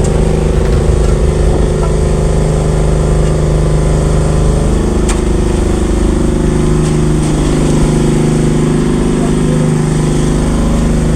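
Concrete mixer truck's engine running steadily, its pitch shifting slightly about four and a half seconds in.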